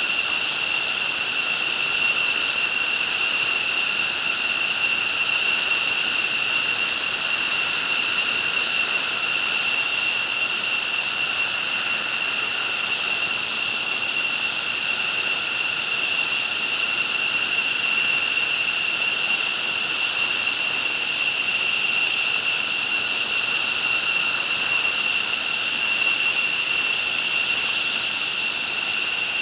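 F-15 fighter's jet engines running steadily on the ground, a loud, even high-pitched whine with no change in pitch.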